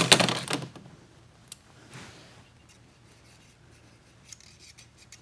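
Light metallic clicks and scraping of hand tools adjusting a motorcycle engine's exhaust valve tappet: a cluster right at the start, then a few scattered small ticks.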